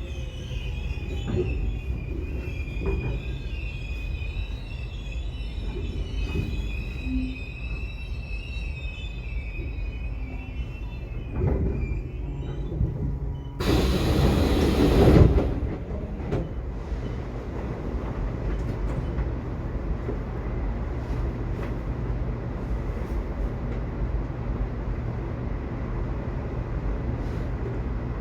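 Subway train running: a steady low rumble from the car, with the wheels squealing high for about the first ten seconds. About fourteen seconds in, a loud rushing noise lasts under two seconds, then the steady rumble goes on.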